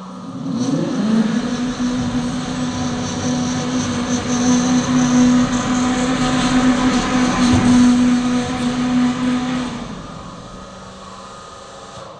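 Electric drive motor of a 36-volt battery platform truck whining as it runs. The pitch rises at the start, then holds steady for about nine seconds before the motor stops about ten seconds in.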